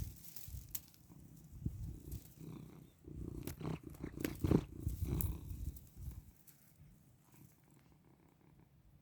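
Domestic cat purring close to the microphone, mixed with rustling and handling clicks. The purring stops about six seconds in.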